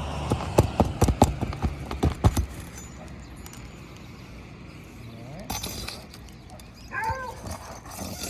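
A quick run of sharp knocks and taps, about a dozen in the first two and a half seconds, from hand tools worked against asphalt roof shingles during a shingle repair, followed by quieter handling with a brief scrape.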